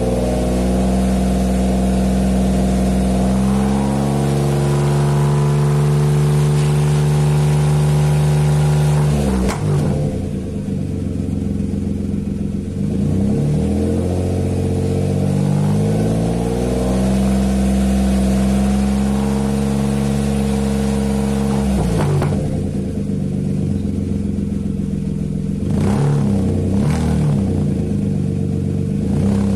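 Nissan March K13's HR12DE 1.2-litre three-cylinder engine revving through an aftermarket racing muffler with its dry exhaust note. The revs climb and are held for several seconds, drop back, are held up again for several seconds, then come two quick blips near the end.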